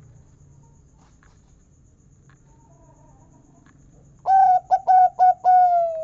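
Local perkutut (zebra dove) singing one phrase about four seconds in: a few short clipped cooing notes, then a long final 'kung' note that slowly falls in pitch.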